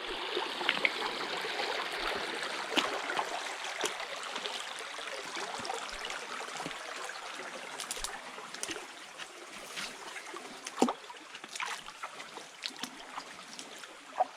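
A small stream running, a steady trickling rush with scattered small splashes, growing gradually quieter toward the end.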